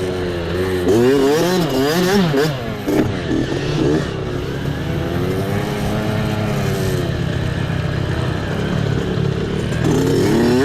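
Small mini bike engine ridden off-road, revving up and down in quick swings for the first few seconds, holding a steadier pitch through the middle, then rising and falling again near the end.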